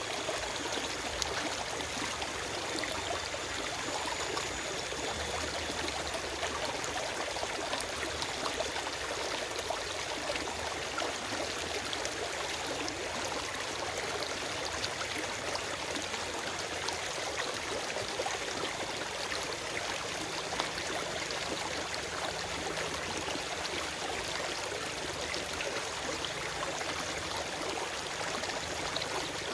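Forest stream flowing steadily over rocks, a continuous rushing and babbling of water with fine splashing detail.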